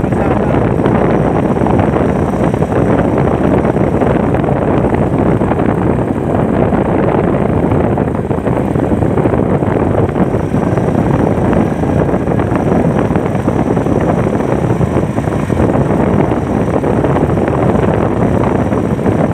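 Steady, loud wind rush buffeting the microphone on a moving motorcycle, unbroken throughout.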